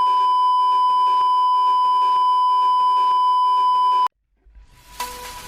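Edited-in censor bleep: a single steady high beep tone held for about four seconds, cutting off abruptly. After a brief silence, music fades in near the end.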